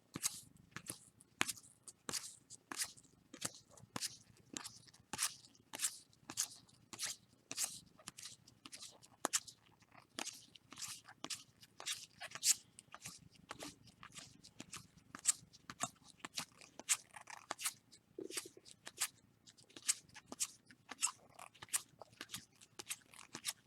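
Trading cards being flipped through one at a time, each card giving a short, faint click, about two a second.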